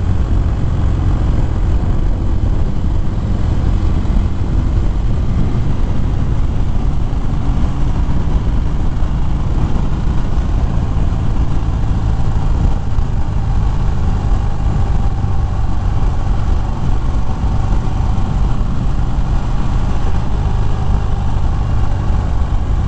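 2013 Harley-Davidson Fat Bob's V-twin engine running steadily at road speed, mixed with wind rushing over the rider's microphone.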